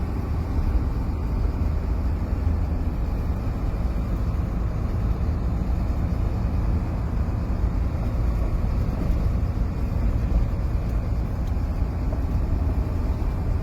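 Sinotruk HOWO heavy truck's diesel engine running steadily under way, with road noise: a continuous low rumble that holds even, with no gear change.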